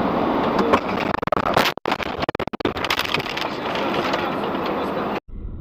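Steady vehicle driving noise with a cluster of sharp knocks about a second in. The sound cuts off abruptly near the end.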